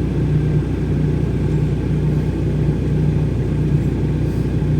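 Off-road 4x4's engine running steadily with a low drone that swells and fades about twice a second.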